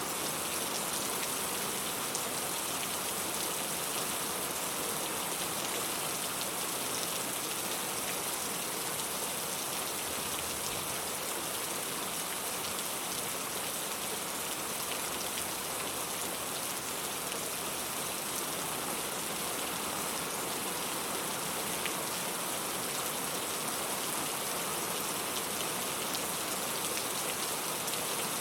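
Steady rainfall, a dense even hiss with fine patter of drops hitting a surface.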